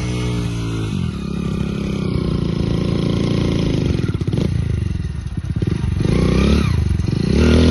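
Motorcycle engine running hard, its pitch dropping about a second in, wavering unsteadily in the middle, then revving up and falling again near the end.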